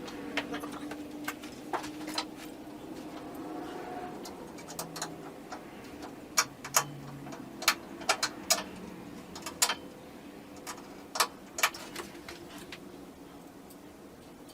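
Irregular sharp clicks and light knocks, about fifteen of them, from tools and treadmill parts being handled during assembly.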